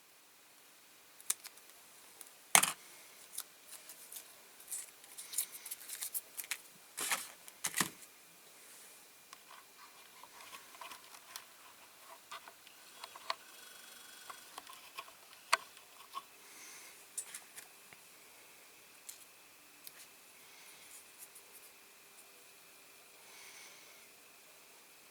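Small scissors snipping at masking on a diecast model, with scattered sharp clicks and short rustles, busiest in the first eight seconds and sparser after.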